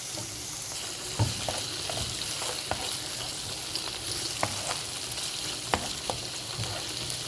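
Squid sizzling in hot olive oil with onion and garlic in a wok, stir-fried, with a cooking utensil clacking and scraping against the pan at irregular moments.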